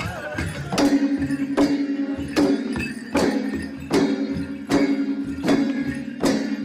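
Chyabrung, the Limbu two-headed barrel drum, beaten in a steady rhythm: one sharp stroke about every 0.8 seconds, each with a ringing tone, the accompaniment for the Ke Lang dance.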